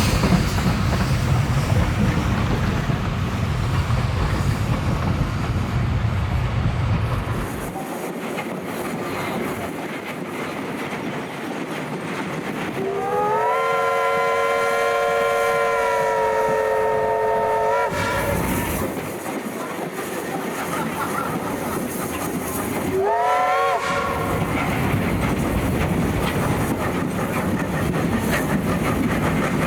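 Steam locomotive Ww 480 running with its train, with steady rolling noise and wheel clatter; the heavy low rumble drops away about eight seconds in. The locomotive's steam whistle then sounds one long blast of about five seconds, rising briefly before it holds steady, and a short second blast follows about five seconds later.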